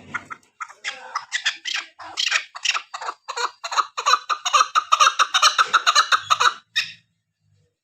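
Female chukar partridge calling: a run of short clucking notes that come faster and louder, ending with one last note about seven seconds in.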